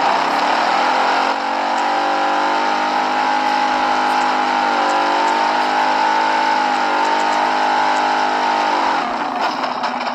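Small motorcycle engine running at high, steady revs. Its note shifts slightly about a second in, then breaks up into rattling near the end.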